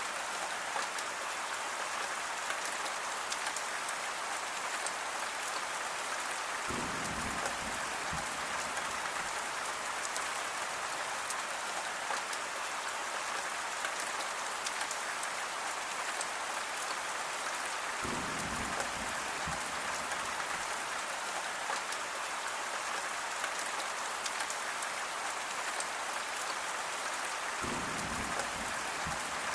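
Steady, even rain pattering on a surface, with three brief low rumbles about seven, eighteen and twenty-eight seconds in.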